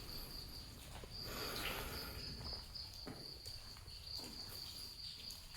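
A cricket chirring in one steady high tone, with a few soft scuffs and taps of footsteps on rock.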